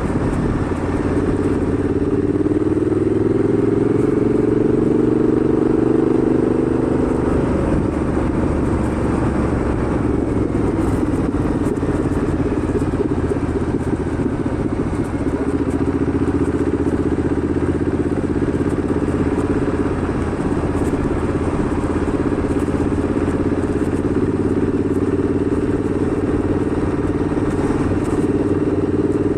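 A motorcycle engine running at road speed with steady wind noise. The engine note rises under acceleration over the first several seconds, turns rougher for a while, then holds steady.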